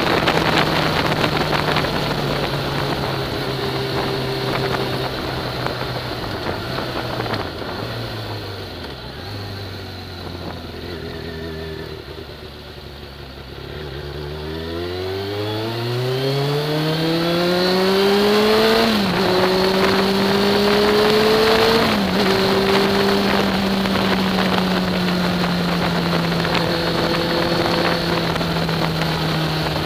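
Sport motorcycle engine heard from the rider's seat. The revs drop step by step to a low, quieter run around the middle, then rise steadily under acceleration, with two quick upshifts in a row, before settling to a steady cruise.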